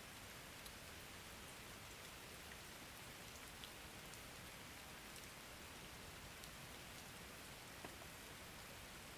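Soft, steady rain falling, with an occasional single drop ticking a little louder.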